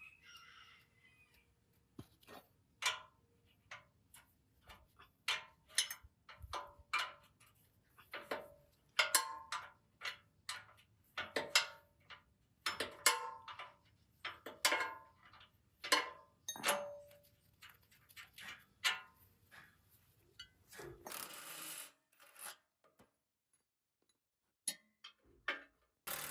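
Metal parts and tools being handled on a workbench, clinking and knocking irregularly, several strikes with a short metallic ring. A brief hiss about a second long follows later.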